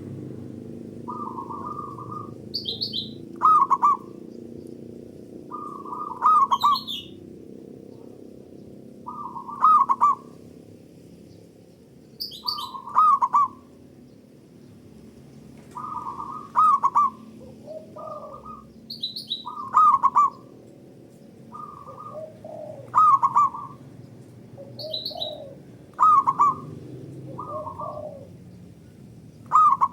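Zebra doves (local perkutut) cooing in short repeated phrases of a few notes, one phrase every two to three seconds, as if answering each other. Higher, shorter chirps from another bird fall between the phrases.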